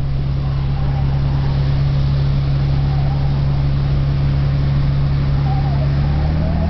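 Toyota LandCruiser 4WD engine droning steadily inside the cabin as it drives slowly on beach sand, its note stepping up slightly near the end.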